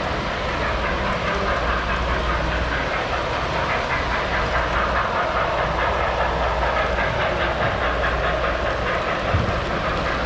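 Model trains running on a layout: a steady rumble of wheels clattering over track.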